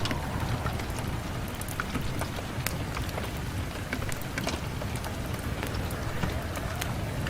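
Steady rain falling on a window, with frequent sharp ticks of drops striking the glass over a low rumble.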